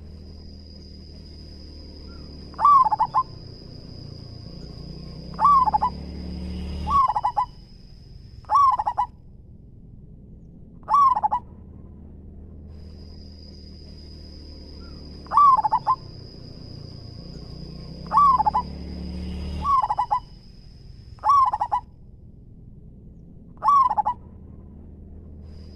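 Zebra dove cooing: short, rapid phrases of descending notes, repeated about ten times a few seconds apart. A steady high thin tone runs behind much of it.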